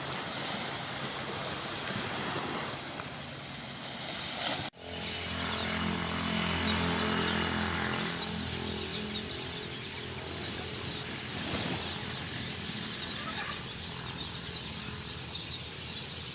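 Outdoor ambient noise with a motor engine running; after a sudden break about five seconds in, the engine hum is strongest for a few seconds, then fades back into the background.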